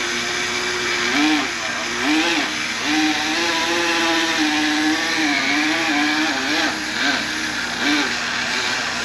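Handheld electric power tool running steadily while cleaning carbon deposits from a cylinder-head intake port. Its pitch keeps dipping and recovering every second or so as it bears on the work.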